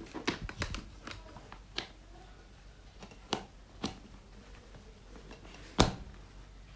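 Handling noises: a few scattered light clicks and taps, then one sharp knock about six seconds in. This is not the hair dryer running.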